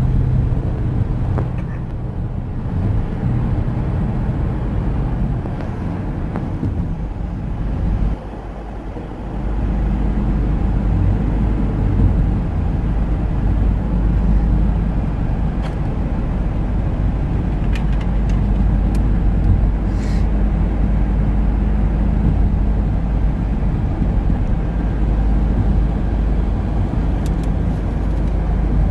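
A car travelling at highway speed, with a steady low rumble of road and engine noise that dips briefly about eight seconds in.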